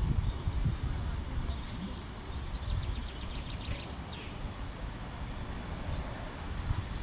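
A small bird sings a fast trill of a dozen or so short high notes, starting about two seconds in, with a few single chirps before and after, over a low, uneven rumble.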